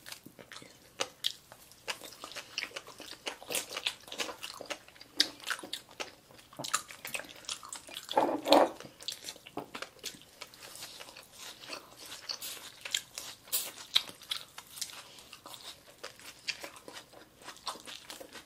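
Close-miked eating sounds: chewing and crisp crunching of sushi, bites into a nori-wrapped tobiko hand roll and mouthfuls of shredded daikon radish, with many small sharp clicks. A louder, lower mouth sound comes about eight and a half seconds in.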